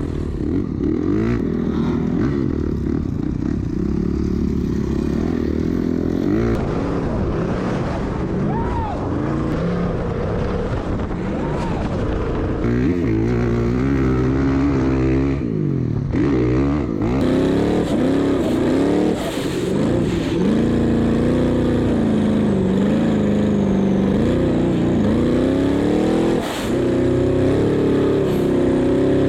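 Off-road vehicle engine running hard, its pitch rising and falling over and over as the throttle is worked and gears change.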